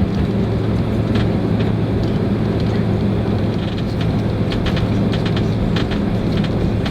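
Boeing 767-300 cabin noise with the engines running on the ground before takeoff: a steady low hum under a noisy rush, with scattered light clicks and rattles throughout.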